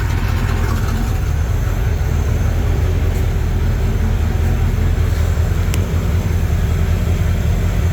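327 small-block Chevy V8 in a 1968 Evinrude boat idling steadily with an even low rumble, running smoothly the way it should.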